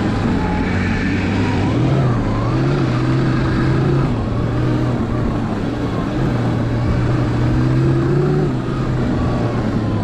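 Electric snowbike with a track kit riding through snow: the motor and track drive whine, rising and falling in pitch with speed, over a steady rush of noise.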